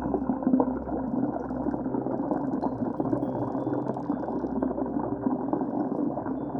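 Steady rushing, bubbling water, muffled, with no high end.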